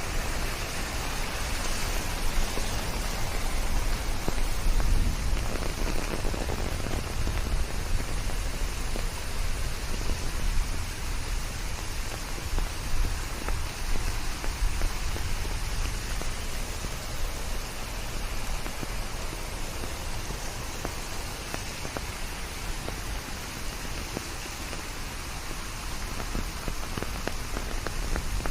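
Steady rain: a dense patter of drops over a low rumble, mixed with white noise.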